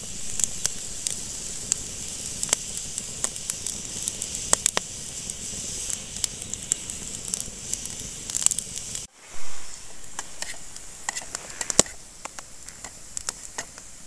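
Small campfire of wet wood burning with a steady hiss and frequent sharp crackles and pops.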